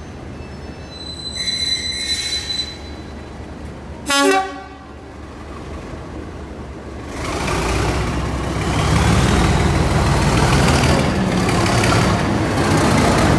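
Class 37 diesel locomotive sounding one short horn toot about four seconds in. Then its English Electric V12 diesel engine builds up and keeps running loudly as the locomotive moves off.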